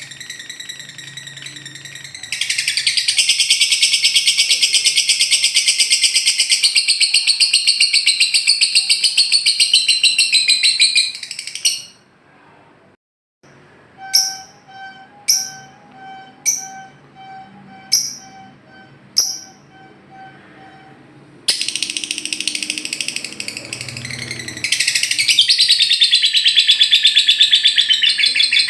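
Lovebird ngekek song: long runs of rapid, high, chattering trills. Midway they break off for a moment, followed by a row of single sharp chirps about a second apart, before the trilling starts again.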